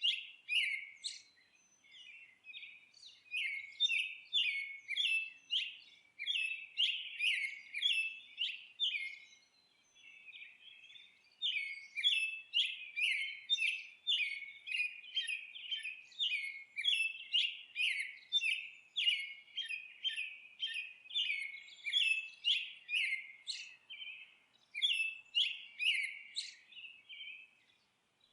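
Songbirds chirping in a rapid, continuous series of short chirps, about two to three a second. The chirping thins out briefly about a second in and again around ten seconds in.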